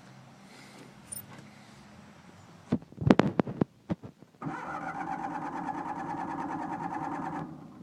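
John Deere 318 garden tractor's starter cranking the engine for about three seconds with a steady, rapid pulsing, then stopping abruptly. A few loud knocks come just before the cranking.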